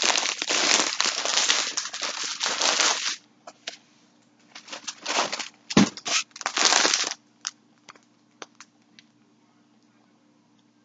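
Packaging crinkling and rustling as it is handled, dense for the first three seconds, then in a few shorter bursts with small clicks.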